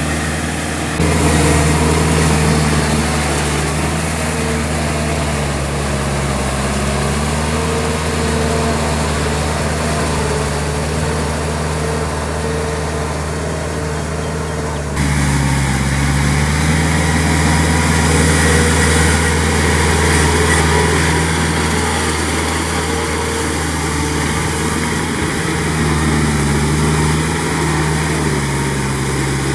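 Kubota L3408 tractor's three-cylinder diesel engine running steadily under load, its pitch wavering a little. About halfway through the sound changes abruptly in tone.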